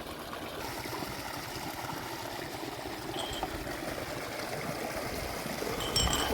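Spring water running and trickling steadily.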